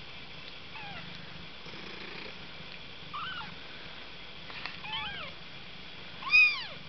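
Young kittens mewing: four short high-pitched mews, each rising then falling in pitch, the last one much louder.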